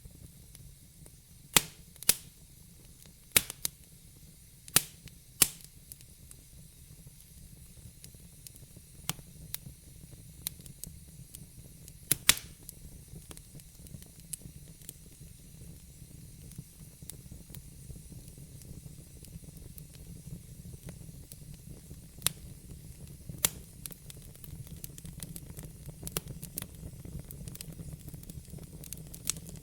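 Wood fire burning in a fireplace: a low steady rumble and hiss with sharp crackles and pops from the burning logs, a cluster of loud pops in the first few seconds, another near the middle and a few more later on.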